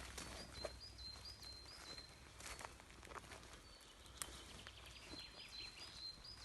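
Quiet rural ambience: a small bird chirping in short high repeated notes, with a quick run of notes about five seconds in. Scattered faint ticks and a low steady hum underneath.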